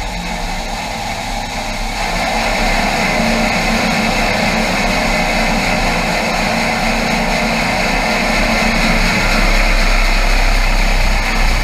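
Combine harvester running steadily, its engine and machinery louder from about two seconds in.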